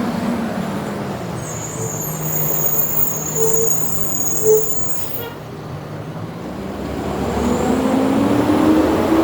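Road traffic passing close by on a city street: a steady engine hum, a high thin whine over the first half, and near the end a vehicle engine pulling away, rising in pitch and getting louder.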